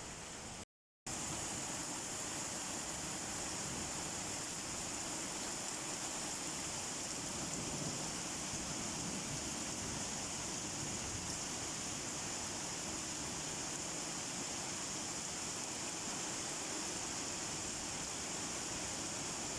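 Steady rain falling, an even hiss brightest in the high treble. Just under a second in, it drops to dead silence for about a third of a second, then resumes unchanged.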